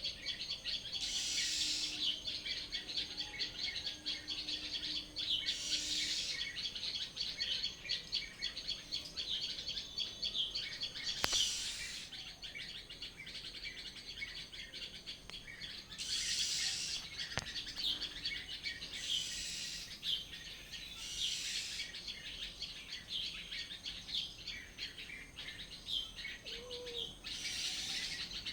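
Many small birds chirping and singing together in a dense, continuous chorus, swelling louder every few seconds.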